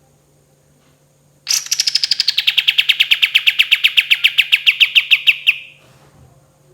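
Kapas tembak, a bulbul, singing one long fast roll: a rapid trill of repeated notes that begins high, slides down and then holds steady, lasting about four seconds before it stops.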